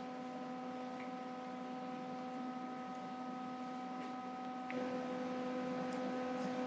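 A steady hum made of several held tones. It gets slightly louder and changes its mix of tones about two-thirds of the way through, with a couple of faint clicks.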